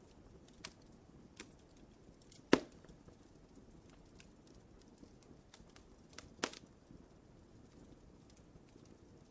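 Wood fire crackling in a fireplace: scattered small snaps over a soft low hiss, with two sharp louder pops about two and a half and six and a half seconds in, the first the loudest.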